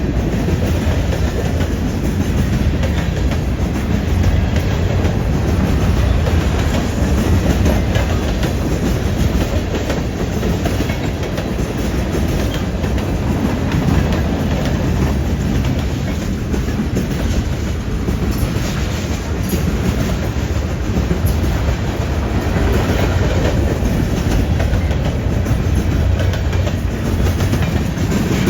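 CN freight train's cars rolling steadily past at speed, wheels clacking over rail joints and the junction switch with a continuous heavy rumble.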